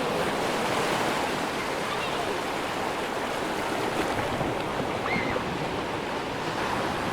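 Atlantic ocean waves breaking and washing onto a sandy beach, a steady unbroken rush of surf.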